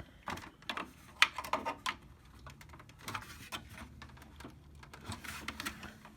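Hard plastic clicks and rattles as the HP 3330 printer's plastic casing is handled and pried at, coming in irregular clusters, with the sharpest click about a second in.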